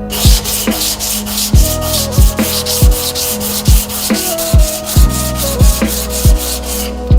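Rapid back-and-forth abrasive rubbing strokes, like sanding by hand, about five a second. They start abruptly and stop shortly before the end, over background music with a steady kick-drum beat.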